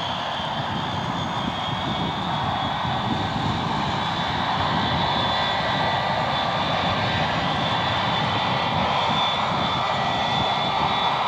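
Aircraft engine running steadily, growing slightly louder, with a faint high whine over the engine sound.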